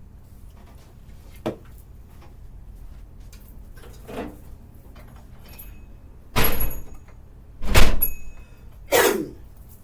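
A few sudden knocks and thuds: a faint click and tap early on, then three loud bumps about a second apart in the second half, the middle one the loudest and deepest.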